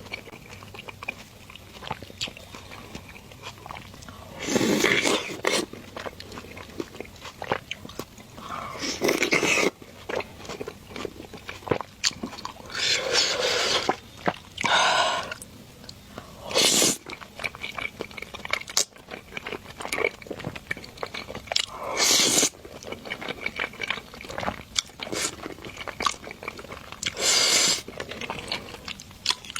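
Close-miked mukbang eating: mouthfuls of spicy fried rice noodles being chewed, with steady small wet clicks and a louder noisy burst every few seconds.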